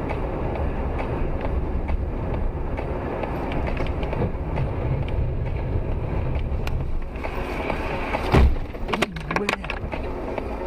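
Steady road and engine rumble of a car on the move, then a sudden loud bang about eight seconds in followed by a few sharp clatters: a car collision.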